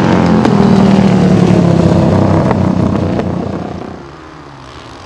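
Flat track racing motorcycle engines running hard as the pack passes, the sound falling away about three to four seconds in.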